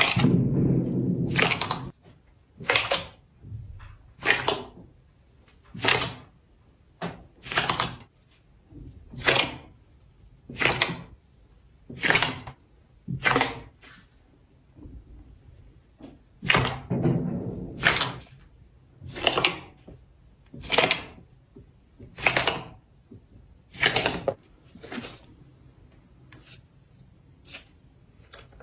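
Slime being pressed and poked, giving sharp popping clicks about once every second and a half. It squelches longer and deeper at the start and again just past halfway.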